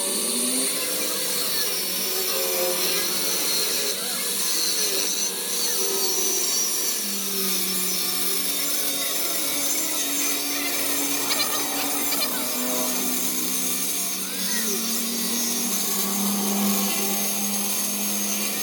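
Workshop power tool running steadily on metal, with a continuous hissing grind. A steady low hum joins it about seven seconds in.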